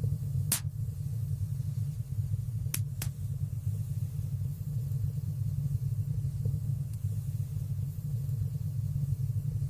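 Wood fire burning in a stone fireplace: a steady low rumble of flames, with three sharp crackles, one about half a second in and a quick pair about three seconds in.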